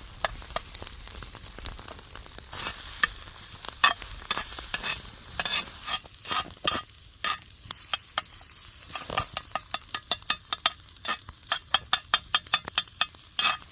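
Eggs frying in butter in a hot pan over a campfire: a steady sizzle with many sharp, irregular pops and crackles, coming thicker and faster in the second half.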